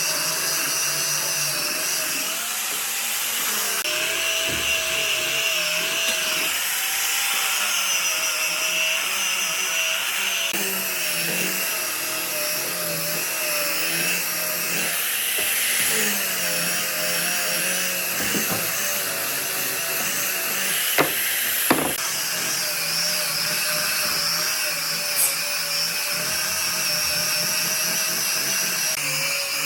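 An electric power tool running steadily, its motor pitch wavering slightly. Two sharp clicks come a little past two-thirds of the way through.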